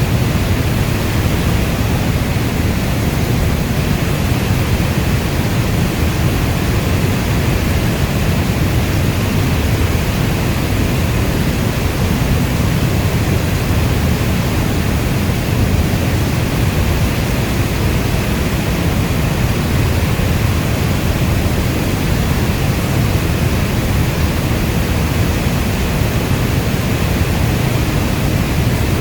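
Steady heavy rain: an even, unbroken wash of noise, heaviest in the deep low end.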